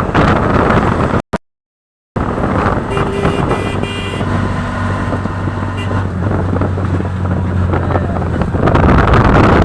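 Wind buffeting the microphone over a steadily running engine. The sound cuts out completely for about a second near the start.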